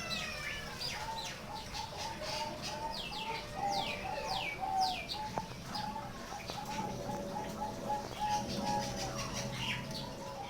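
Zebra doves (perkutut) cooing in a rhythmic series of short, soft notes, with quick high chirps that sweep downward from other birds over them.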